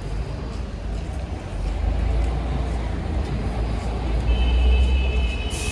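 Street traffic: a steady low rumble of passing road vehicles, with a brief high steady tone joining in about four seconds in.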